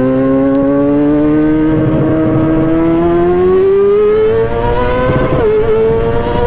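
Motorcycle engine pulling under steady throttle, its pitch rising slowly for about five seconds, then a brief dip before it holds steady.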